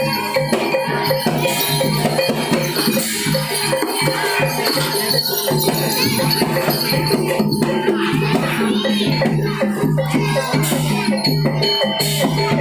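Javanese gamelan music accompanying a barongan dance: continuous, dense percussion with steady ringing tones and a jingling, rattle-like layer.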